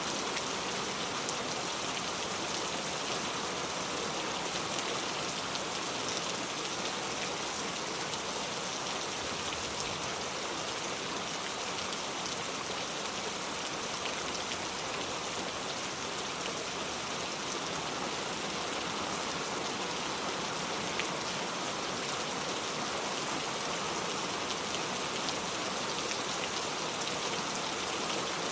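Steady rain falling, an even hiss with fine drop ticks landing on surfaces.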